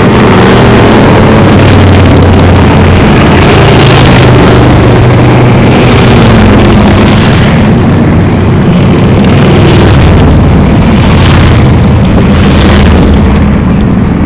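A parade of many motorcycles riding past close by, their engines running loud and steady, with several swells as individual bikes pass closer or rev.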